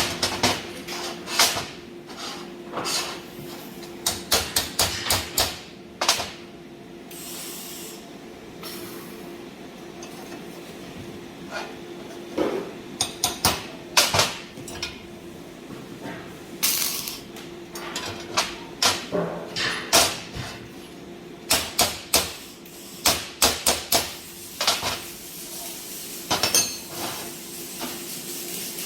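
Steel stove parts being worked by hand: irregular metallic clanks and hammer-like knocks in clusters, with a few short hisses and a steady low hum underneath.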